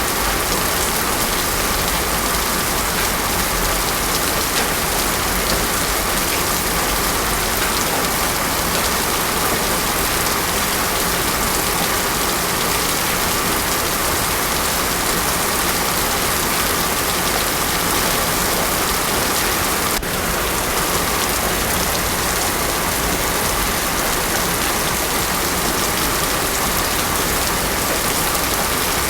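Heavy rain falling steadily on a road surface: a dense, even hiss with no thunder.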